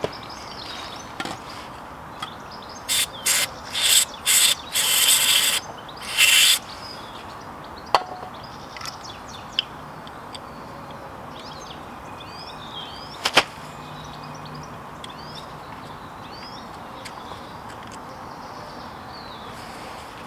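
A run of six short hissing bursts, one after another over a few seconds, then a few sharp clicks, with birds chirping faintly in the background.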